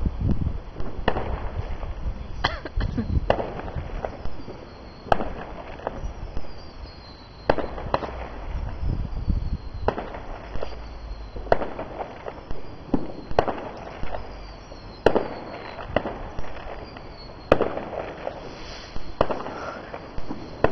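Fireworks going off all around: a string of sharp bangs every second or two, some trailing off in echoes, over a low rumble.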